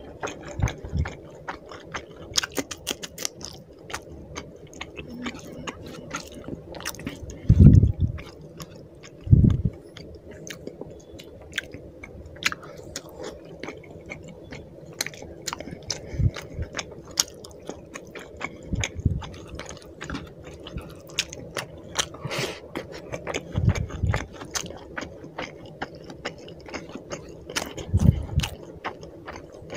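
A person chewing a mouthful of rice and fish curry with wet smacking mouth clicks, and a few louder low thuds here and there.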